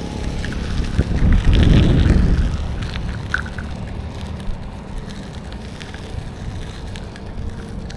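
Road traffic ambience heard from a moving bicycle: steady low rumble with wind on the microphone, swelling louder for about a second around a second and a half in.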